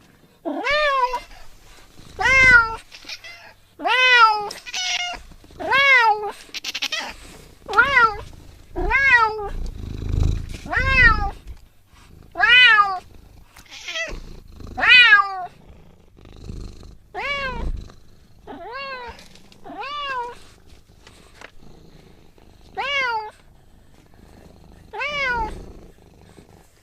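Domestic cat meowing over and over, short calls that rise and fall in pitch, about one a second with brief gaps.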